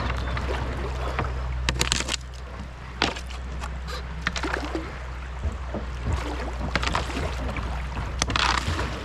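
Kayak going down a shallow creek rapid: paddle strokes splashing in rushing water, with several sharp knocks from the paddle or hull.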